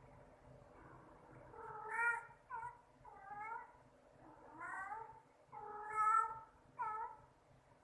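A domestic cat meowing repeatedly, about six meows of varying length with pitch bending up and down; the loudest come about two and six seconds in.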